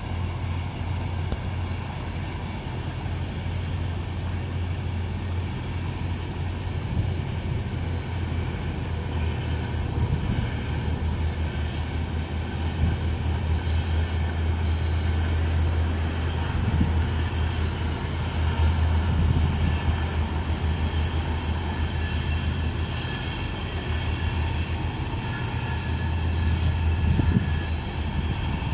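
Intercity train pushed by a DB Class 101 electric locomotive, rolling past at a distance: a steady low rumble of wheels on rail that swells slightly toward the middle and again near the end.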